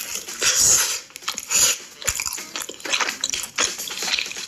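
Close-miked eating of cheesy pizza: irregular biting and chewing with wet clicks and mouth smacks, the loudest bites just under a second in and at about a second and a half.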